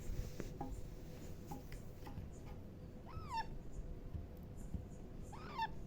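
Young Alexandrine parakeet giving two short calls about two seconds apart, each rising then falling in pitch, with faint small clicks between them.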